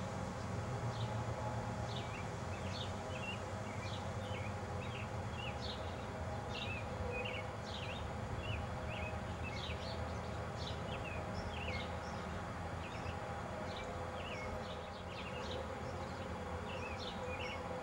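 Birds chirping and singing in short, high notes several times a second, over a steady low hum.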